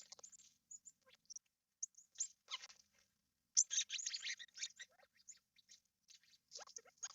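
Small birds chirping and calling in quick, short bursts, busiest a little past halfway.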